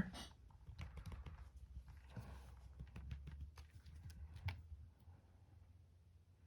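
Faint, irregular clicks and scrapes of a dog gnawing on a bone, over a low steady rumble of a cat purring close by; both die away about five seconds in.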